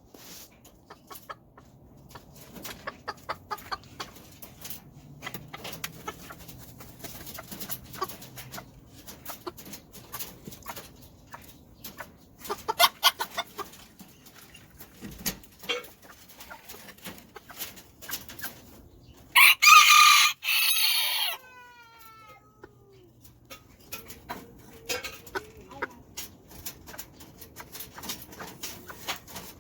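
Serama chickens clucking in short repeated calls, with a Serama rooster crowing once, loudly, about two-thirds of the way through, the crow trailing off in a falling note.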